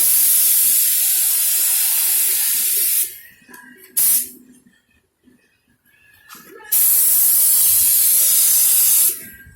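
Spray gun hissing as it sprays coating onto a bumper: one long pass of about three seconds, a brief blip about a second later, then a second pass of about two and a half seconds.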